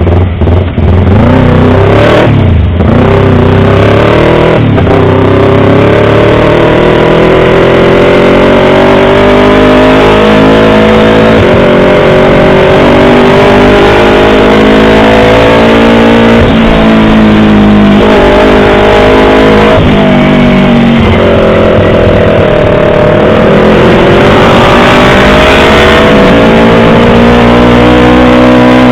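Yamaha R25 motorcycle's parallel-twin engine, revved in quick blips at first, then running continuously with its pitch slowly rising and falling and a few brief breaks.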